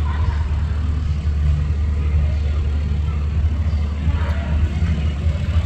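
A steady low rumble, loud and unbroken, with faint voices in the background.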